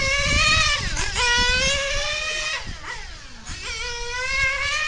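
Novarossi 9-port nitro two-stroke engine of a 1/8-scale on-road RC car running at high revs as it laps. The pitch climbs and then drops sharply several times as the throttle is lifted and reapplied. It dips in loudness about three seconds in.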